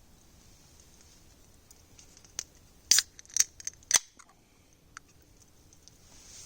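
A faint steady hiss broken by a handful of short, sharp clicks about two to four seconds in, the loudest near the middle.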